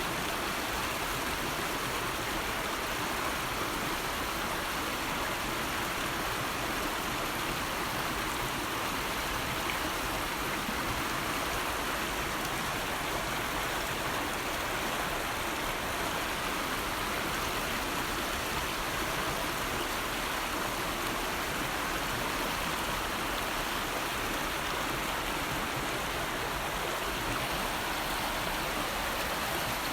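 River water flowing steadily, a continuous even rushing with no pauses or changes.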